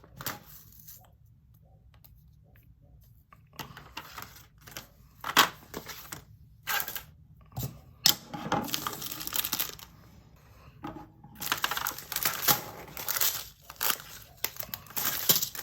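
Small resin diamond-painting drills poured from a plastic bag into a plastic storage container, rattling in several bursts after a quiet couple of seconds, with crinkling of the bag and sharp clicks.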